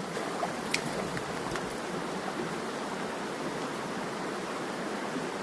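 Steady rush of flowing creek water, with a couple of faint clicks about a second in.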